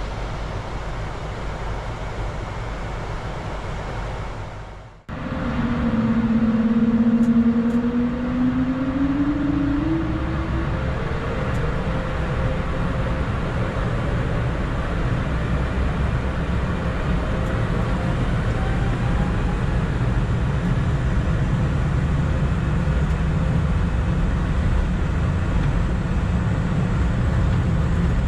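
Steady jet engine and airflow noise on an Airbus A220 flight deck during the climb. About five seconds in it cuts out for a moment and comes back louder, with a tone rising in pitch for a few seconds before it settles steady again.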